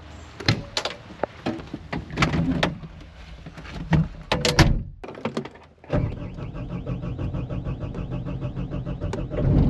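A series of clunks and knocks like a door and latches being handled, then a brief lull; about six seconds in, an engine starts running steadily with an even pulse.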